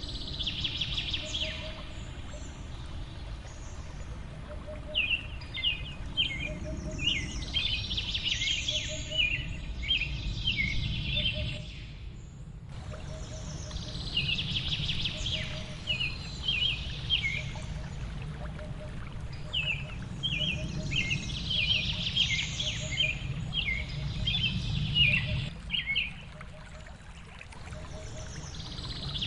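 Several small birds chirping and trilling in quick high phrases over a steady low rush of falling water, with a short low note recurring about once a second. The sound dips briefly about twelve seconds in and the same birdsong pattern starts over.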